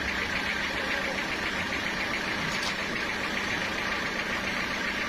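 A sawmill engine running steadily, with a fast, even pulsing.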